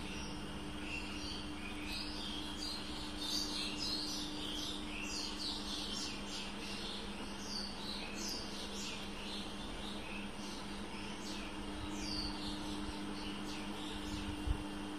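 Birds chirping: many short chirps, each sliding downward, following one another all the way through, over a steady low hum.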